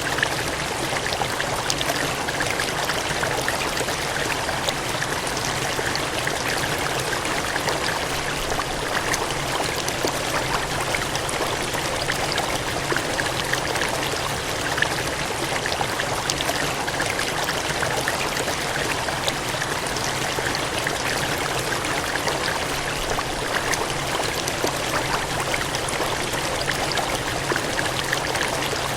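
Cascading water gushing steadily, an even rushing hiss with fine splashes and no change in level.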